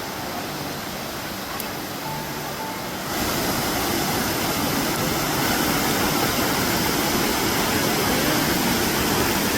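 Sanaghagara waterfall's water falling and rushing as a steady wash of noise, which gets louder and brighter about three seconds in.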